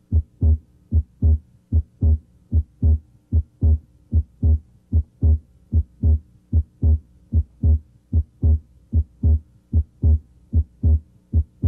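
Human heart sounds heard through a stethoscope at the left third intercostal space: a regular run of paired lub-dub beats, S1 then S2, about 70 a minute.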